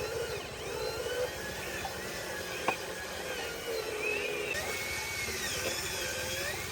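Small electric motors of radio-controlled construction machines whining, their pitch rising and falling as the controls are worked, over a low pulsing hum. A single sharp click sounds about two and a half seconds in.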